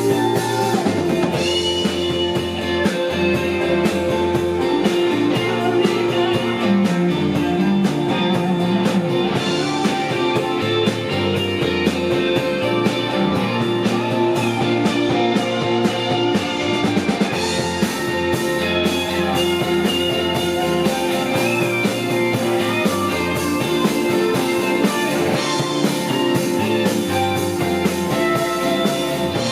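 Rock band playing a psychedelic-leaning song live, electric guitars and drum kit carrying a steady, continuous passage.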